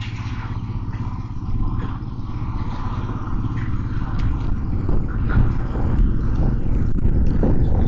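Motorcycle engine running steadily while riding in traffic, with a continuous low rumble and road and wind noise on the microphone.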